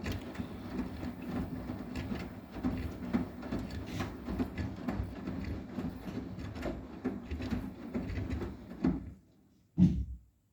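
Arçelik 9120M front-loading washing machine tumbling a load of pillows, its motor humming under irregular knocks and sloshing from the drum. It stops about nine seconds in, and a single loud thump follows near the end.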